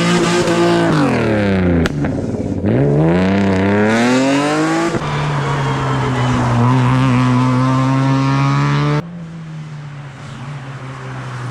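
Rally car engines at full throttle: one note holds high, then drops away as the driver lifts off, and climbs again under hard acceleration. After abrupt cuts between passes, one engine holds a steady high note, and about nine seconds in the sound switches to a quieter, more distant engine.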